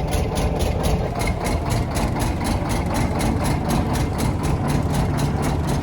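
An engine running steadily with an even beat of about five pulses a second.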